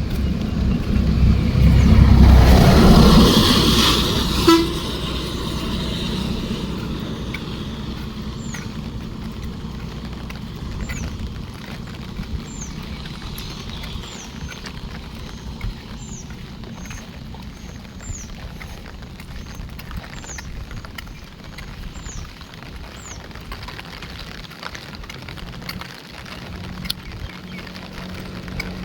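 Steady monsoon rain, with a motor vehicle passing close in the first few seconds and a short toot at about four and a half seconds. Later a run of short, high, falling chirps repeats about once a second for some fifteen seconds.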